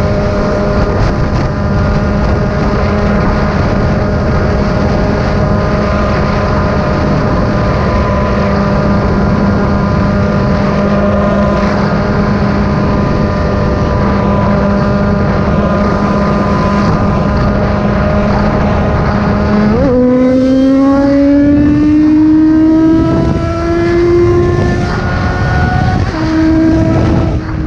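Yamaha XJ6 600 cc inline-four engine heard from the rider's seat, cruising at steady revs over wind and road noise. About twenty seconds in, the revs jump and climb steadily as the bike accelerates, dip once with a gear change, then climb again near the end.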